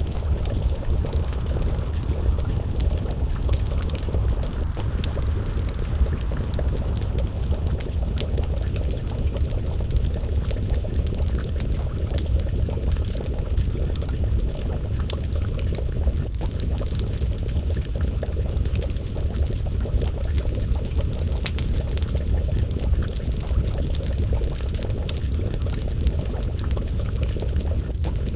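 A pot of stew bubbling steadily over a wood fire, with small sharp crackles from the burning logs scattered throughout.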